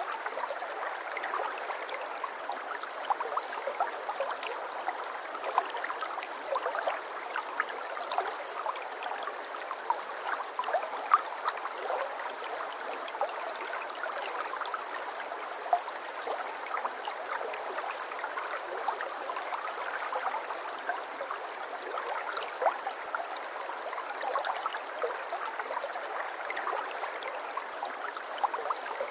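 A babbling brook: shallow water running and gurgling over stones, a steady flow with many small splashes and trickles.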